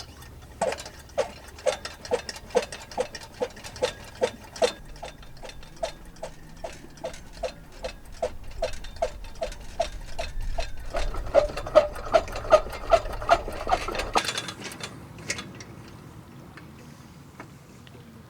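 A steady series of light, ringing knocks, about two to three a second, getting slightly quicker and louder around eleven seconds in, then stopping about fourteen seconds in.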